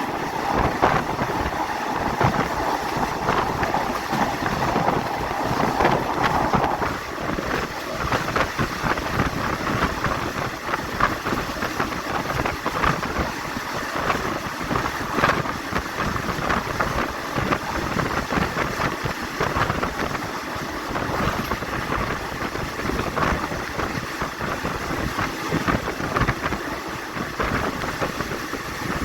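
Passenger train running along the line, heard from on board: a steady rumble and rattle from the wheels and carriage with many small knocks, and wind buffeting the microphone. A hum that rides on top fades out about seven seconds in.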